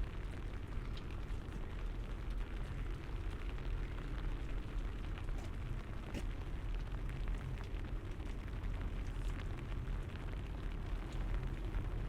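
Light rain ticking on an umbrella, with a steady low rumble underneath.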